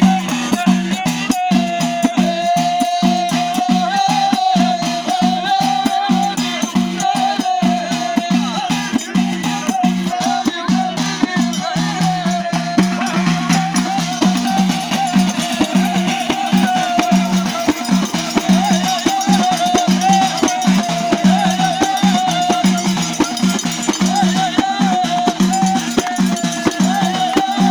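Moroccan Abidat Rma folk music: a driving rhythm of frame drums and rattling percussion under a sustained, wavering melody line.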